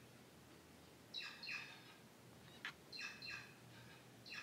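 A bird chirping faintly in short pairs of notes, a pair about every two seconds, with one sharp click just before the last pair.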